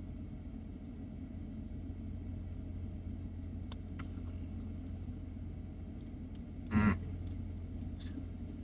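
Steady low rumble of an idling car heard from inside the cabin, with a brief vocal sound about seven seconds in.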